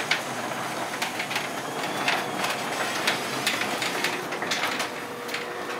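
Motorized garage door opening: the opener running with a steady mechanical noise while the door clatters and rattles irregularly as it travels up.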